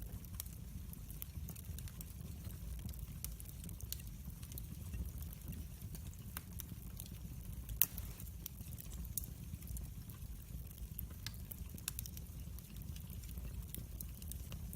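Wood fire in a fireplace crackling: a steady low rumble of flames with scattered sharp pops and crackles, one louder pop about halfway through.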